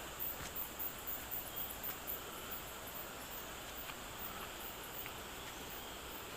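Rainforest insects droning and chirping, with a fast run of very high-pitched pulses over the first couple of seconds.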